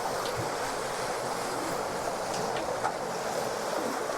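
Steady rush of wind and water aboard a J/105 sailboat under way in strong wind and waves, with a small tick a little before three seconds in.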